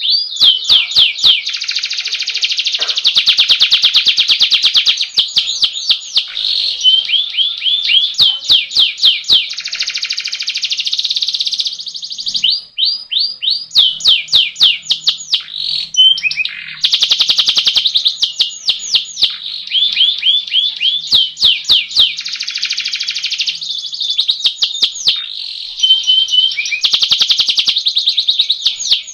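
Domestic canary singing its rolling song: long, fast trills of repeated high notes, one phrase running into the next with only brief breaks.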